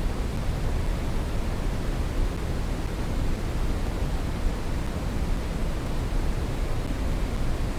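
Brown noise: a steady, unchanging rumbling hiss, strongest in the bass and falling off toward the treble.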